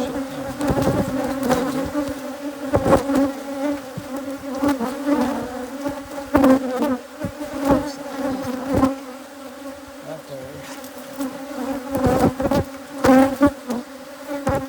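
A dense mass of hybrid Africanized honeybees buzzing loudly around an opened hive in a steady, even hum, with scattered short knocks through it.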